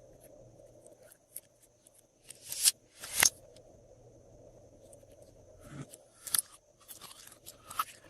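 Glossy slime being squished and pressed by hand, giving short crackling pops and clicks. Two loud pops come about two and a half and three seconds in, and more follow near the end.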